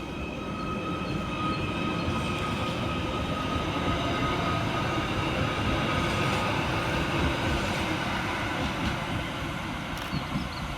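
Merseyrail Class 777 electric multiple unit pulling out of the station, its running noise swelling to a peak about halfway through and then easing off. A thin steady whine from the train's electrics fades out about two-thirds of the way through.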